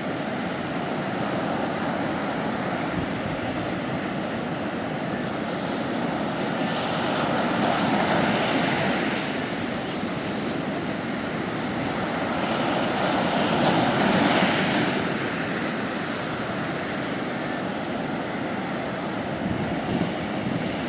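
Sea waves breaking and washing up a beach: a steady rush of surf that swells twice, about a third of the way in and again just past the middle.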